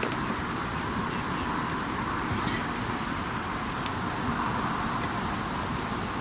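Wood campfire burning: a steady hiss with a few sharp crackles from the burning wood.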